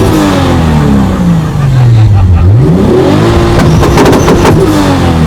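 Three-litre single-turbo car engine being revved hard while stationary. The revs fall away from a peak, are blipped up again about two and a half seconds in and held, then fall once more. Sharp exhaust pops and bangs crackle around the second rev.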